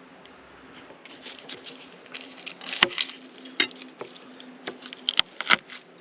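Aluminum foil being handled and crinkled, a run of sharp irregular crackles that grows louder about three seconds in and again near the end.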